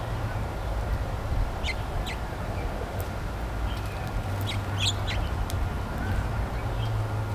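Backyard songbirds giving short, sharp chirps: a couple near the start, then a quick cluster a little over halfway through, over a steady low rumble.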